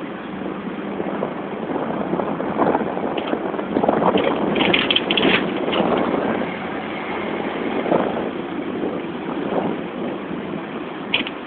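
Hong Kong double-decker electric tram running along its street tracks, a steady noisy rumble that swells and eases, with a few clicks and a cluster of short high squeaks about four to five seconds in.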